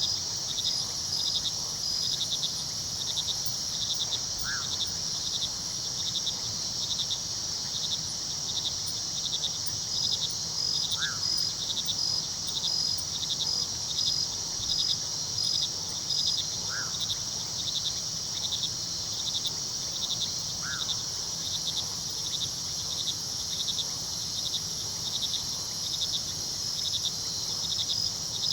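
Dense chorus of night crickets chirping steadily in fast pulses, with a faint low rush of river water underneath. A short high call cuts through four times, a few seconds apart.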